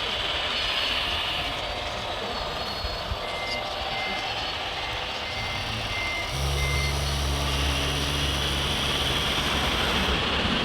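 Reversing-alarm beeps from an RC model truck's sound module, a short series of evenly spaced beeps lasting about three seconds. About six seconds in, a low steady engine hum from the sound module starts abruptly and runs on, over a constant high electric-motor whine.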